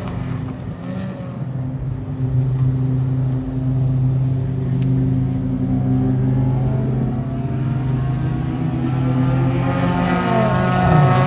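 A car engine running at a steady speed. Near the end its pitch dips and then rises again.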